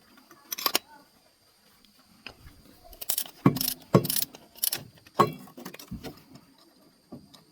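Metal hand tools and parts clinking and clanking, about seven sharp hits, most of them bunched together in the middle.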